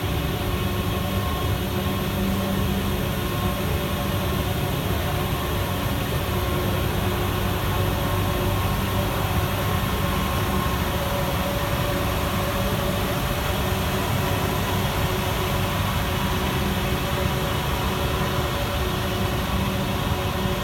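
Guangzhou Metro Line 1 train running: a steady, even noise with faint steady whining tones and no clicks or breaks.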